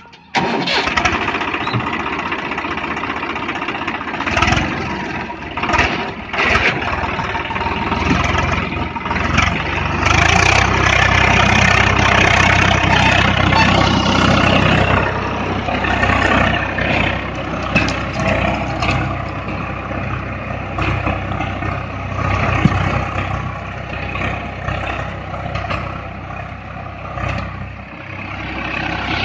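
Swaraj 744 FE tractor's diesel engine running, cutting in abruptly at the start, with a steady low drone that grows stronger about a third of the way in.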